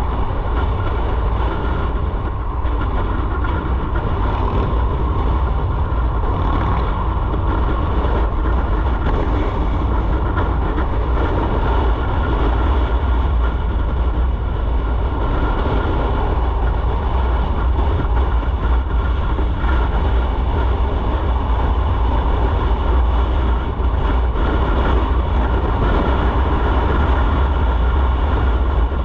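Steady rush and rumble of a motorcycle ridden at speed: heavy wind noise on the microphone over the running engine, with no breaks.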